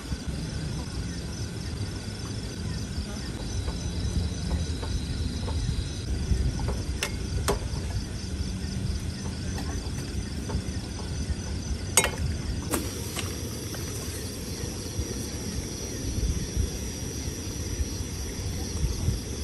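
Insects, crickets or cicadas, chirping in a steady, rhythmic, high-pitched pulsing chorus over a constant low rumble. There are a few sharp clicks, the clearest about twelve seconds in, after which a steady high tone joins the chorus.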